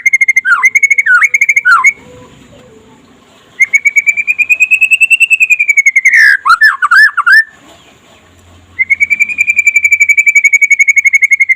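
Young white-rumped shama (murai trotol) singing loudly: long fast trills of rapidly repeated notes near one pitch, each followed by a few quick downward-swooping notes, in phrases separated by two short pauses.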